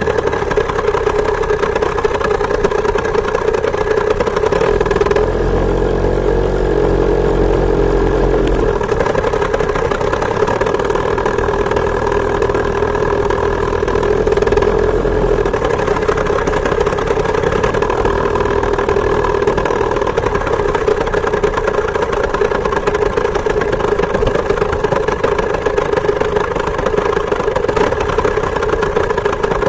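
Two-stroke chainsaw engine powering a homemade moped, running steadily at an even pitch while riding. A deeper rumble joins briefly from about five to nine seconds in.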